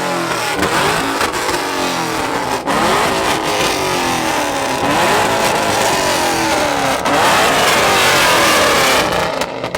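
Supercharged car engine revving repeatedly, its pitch climbing and falling with each rev. It gets louder for the last couple of seconds and then drops away near the end.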